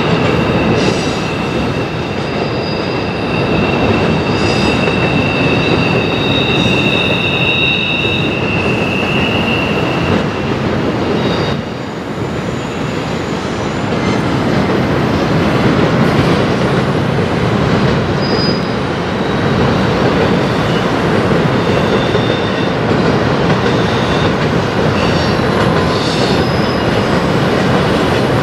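Double-stack container cars of a CN intermodal freight train rolling through a tight curve. The wheel flanges squeal against the rail in high, drawn-out tones through roughly the first ten seconds, with shorter squeals later, over the steady rumble of the passing cars.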